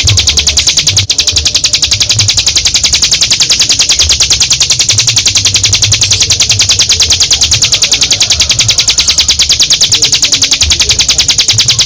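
Ciblek gunung (mountain prinia) singing a long, unbroken trill: one high note repeated very rapidly and evenly, with only a brief catch about a second in.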